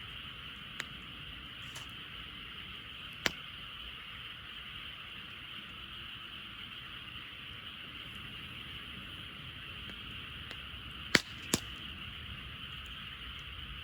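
A dense frog chorus as a steady high-pitched hum, with a wood campfire crackling through it: a few sharp pops, the loudest two close together near the end.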